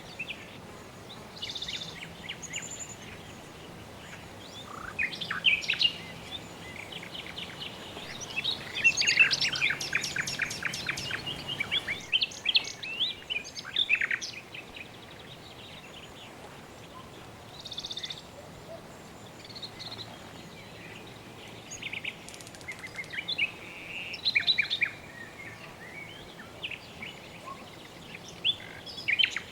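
Birds chirping in short scattered phrases, with a fast run of evenly spaced chirps about a third of the way in, over a steady background hiss.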